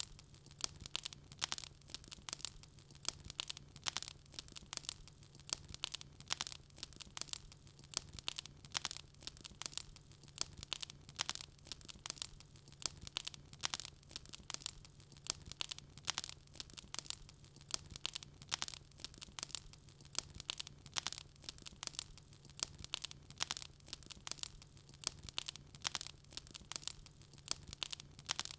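Wood fire crackling in a fireplace: a dense, continuous run of sharp snaps and pops, several a second.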